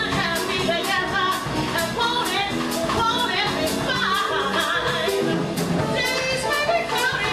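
Live jazz band playing a swinging ballad: a wavering melodic line over a steady cymbal beat, about three strokes a second.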